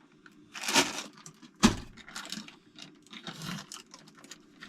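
Loose metal bolts rattling and clinking as they are handled, with a short rattle just under a second in and a sharp knock about a second and a half in.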